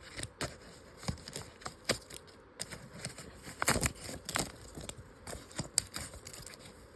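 Paper rustling, scraping and tearing in irregular small clicks and scratches as a handmade paper phone model is worked apart by hand.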